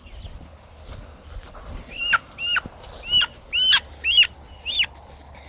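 Guinea fowl calling: a run of about six sharp, harsh calls, each dropping in pitch, coming quickly one after another in the second half.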